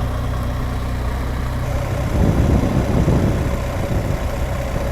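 BMW R1200GS Adventure's boxer-twin engine running at low revs in first gear, with a louder, rougher stretch about two seconds in.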